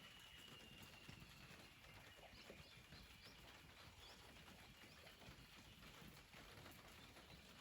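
Near silence with faint outdoor ambience; a small bird gives a quick series of faint high chirps about two to three seconds in.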